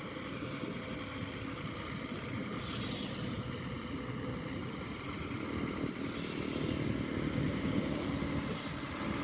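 A vehicle engine running steadily, a low even drone that swells slightly about six seconds in.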